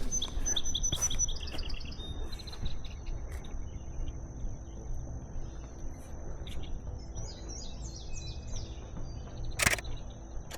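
Songbirds singing: a quick run of high notes falling in pitch at the start, then scattered high chirps and short sweeping calls. A single sharp click comes near the end.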